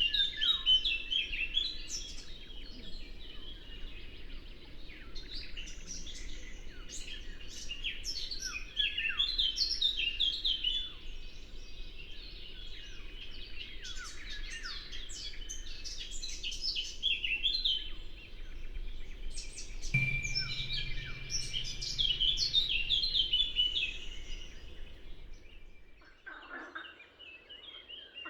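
Dense chorus of many songbirds chirping and trilling over a faint, low, steady rush of river water. About two seconds before the end the water sound drops away and lower calls, falling in pitch, take over.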